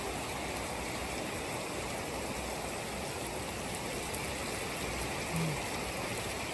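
Heavy rain falling steadily, an even hiss of water that does not let up.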